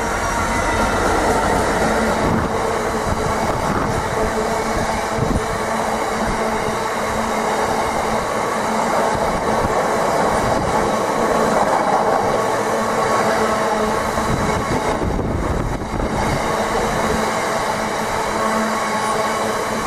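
A train running past on the line: a steady, loud din of wheels on rails, with a steady hum underneath.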